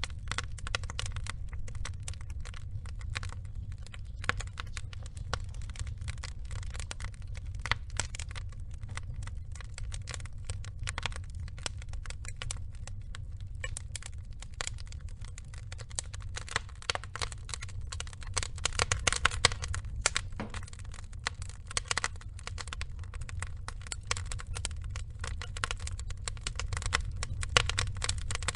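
Burning logs crackling and popping in irregular quick snaps over a steady low rumble of the fire. The crackling grows denser and louder a little past the middle.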